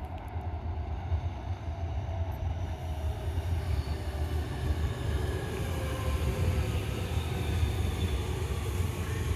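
Aichi Loop Railway electric commuter train approaching and passing, with a rumble of wheels on rail that grows louder and a motor hum that slowly falls in pitch.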